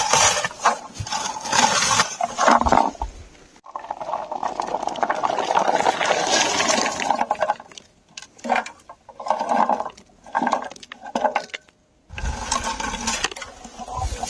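Lingonberry shrubs rustling in irregular bursts with short pauses as berries are stripped from them. From about twelve seconds in, a low rumble runs under the rustling.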